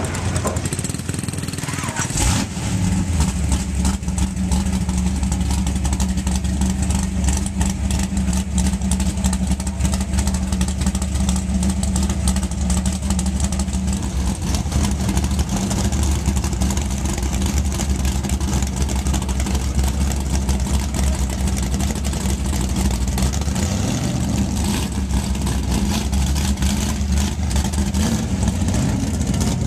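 A Chevelle SS drag car's V8 fires up about two seconds in, then idles loud and steady with a choppy pulse. Its note changes a little near the end.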